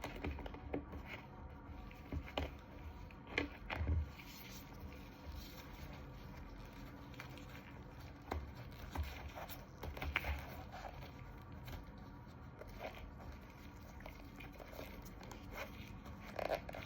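Faint rustling and scraping of hands applying a tourniquet to an arm, with scattered light clicks and knocks, a few louder ones in the first few seconds.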